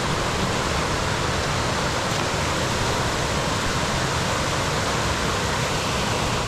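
Steady rush of falling water, an even hiss-and-roar that cuts off suddenly at the end.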